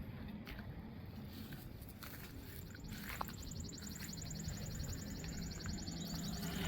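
Wind rumbling on the microphone. A few seconds in, a high, rapidly pulsing insect buzz starts up.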